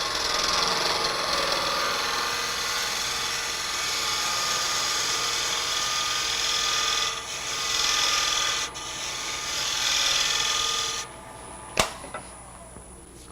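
Spindle gouge cutting into a hard maple knob spinning on a wood lathe, a steady rasping hiss of the cut that stops about eleven seconds in. A sharp click follows shortly after.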